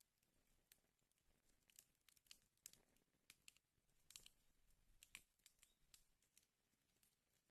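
Faint wood fire crackling in a fireplace: irregular small pops and snaps, with a few sharper cracks scattered through.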